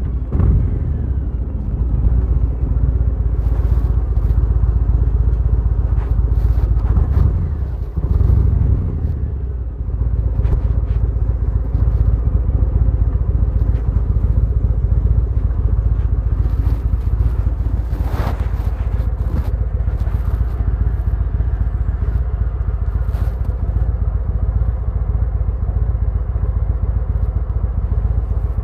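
Harley-Davidson Fat Boy's V-twin engine running steadily as the bike is ridden, with wind buffeting the microphone. The engine note dips briefly about eight and ten seconds in.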